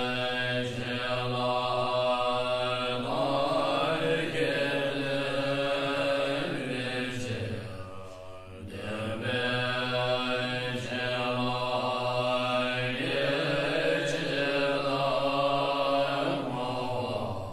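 Chanted mantra: a voice holding long, slowly shifting notes in two long phrases, with a short break about eight seconds in.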